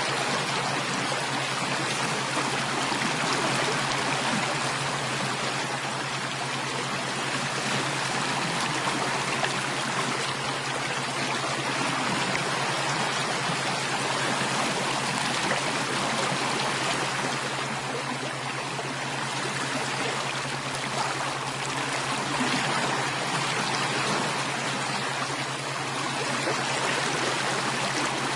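Running water: a stream flowing steadily, with an even rushing and trickling that does not let up.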